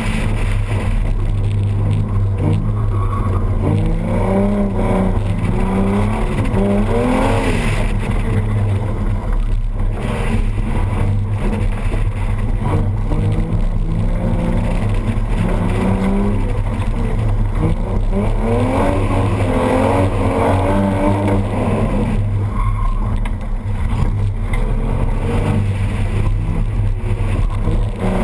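A car engine revving hard and easing off again and again through an autocross run, its pitch sweeping up and down every second or two over a steady low rumble.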